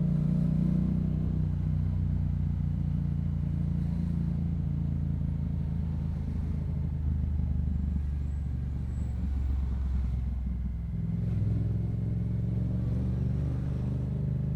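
Yamaha MT-07's parallel-twin engine through a Yoshimura exhaust, running at low speed with a steady low rumble. The pitch rises gently as the bike picks up a little speed near the start, and again about eleven seconds in.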